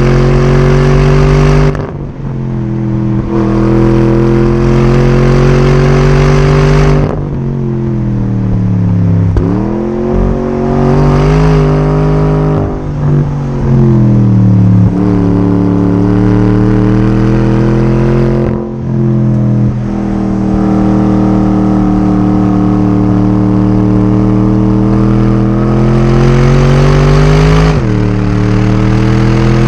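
Porsche Cayenne Turbo S twin-turbo V8 pulling hard under acceleration. Its pitch climbs steadily, then drops sharply at each gear change, five or so times.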